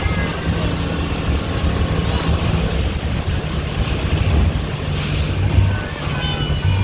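Tour boat's motor running steadily underway, a low hum, with wind buffeting the microphone.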